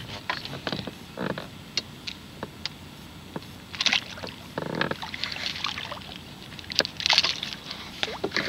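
Handling noise in a small fishing skiff with a freshly landed redfish aboard: scattered knocks and clicks against the boat, with a few short splashy rushes.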